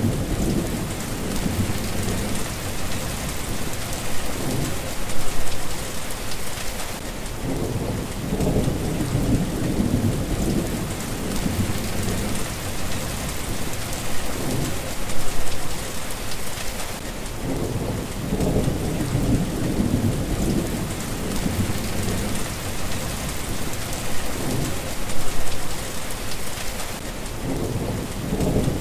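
Steady rain hissing, with low rolling rumbles of thunder coming and going underneath. The loudest swells come about every ten seconds.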